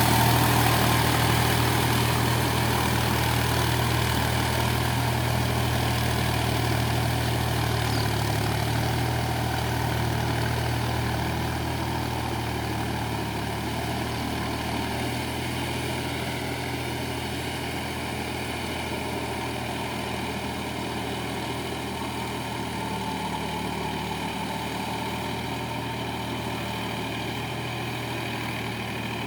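Massey Ferguson Dynatrack 254 DI tractor's direct-injection diesel engine running steadily. It eases a little quieter over the first dozen seconds, then holds level.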